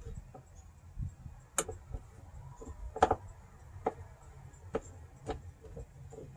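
Scattered small clicks and taps of hand-tool work as a screw is tightened down on a window retaining clip. The loudest knock comes about three seconds in.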